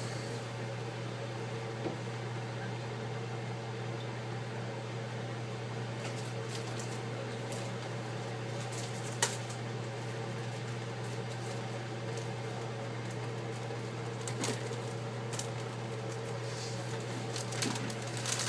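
A steady low machine hum, with a few faint clicks now and then.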